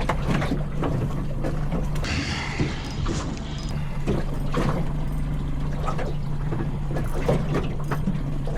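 A steady low hum aboard a small boat, with many small knocks and clicks from fishing gear being handled. A short hiss comes about two seconds in.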